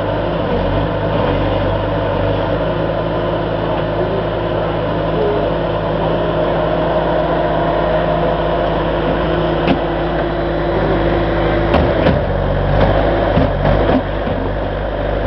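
An engine running steadily, with a few sharp clicks about ten and twelve seconds in, where its pitch drops.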